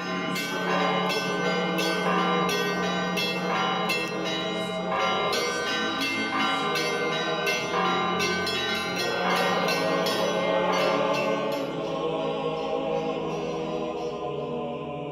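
Church bells ringing in quick repeated strokes, two or three a second, over a steady low hum, as opening music. The strokes stop a few seconds before the end and the ringing fades away.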